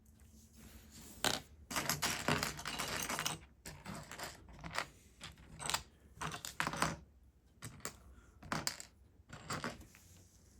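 Plastic LEGO pieces clicking and rattling as they are handled and snapped together, with a stretch of dense clattering about two seconds in and separate sharp clicks after it.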